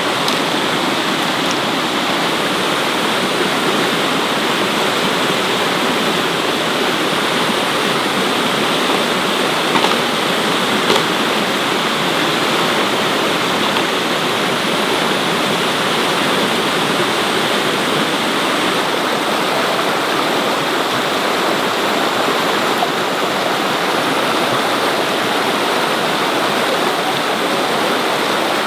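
Heavy rain and running rainwater making a loud, steady, even rush.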